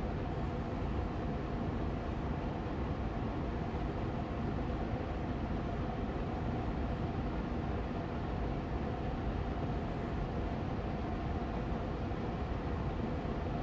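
Air purifier fan running steadily on medium speed: an even rushing hum of moving air, strongest in the low range, with a faint steady motor tone.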